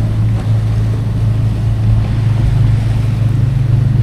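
Sailing yacht's inboard engine running steadily while motoring, a low drone with a steady hiss above it.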